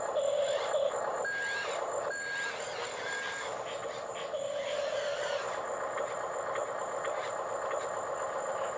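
Remote-controlled toy skid steer's small electric drive motors whining, starting and stopping as it is driven. Three short electronic beeps sound one after another about a second in.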